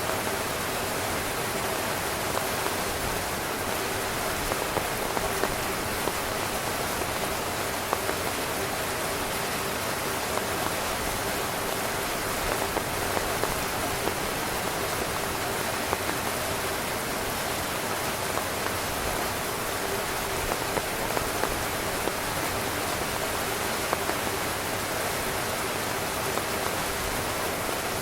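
Steady rain falling on a tent, a continuous patter with frequent sharper drops hitting the fabric.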